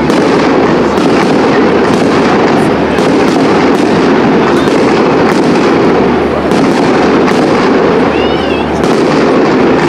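Fireworks display: a dense, unbroken run of bangs and crackling from aerial shells bursting one after another.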